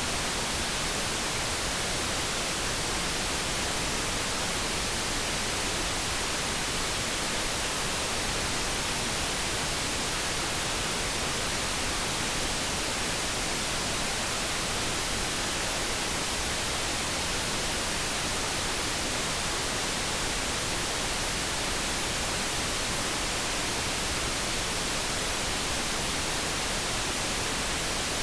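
Steady synthetic noise: an even, unbroken hiss spread across the whole range with no tones, hum or changes.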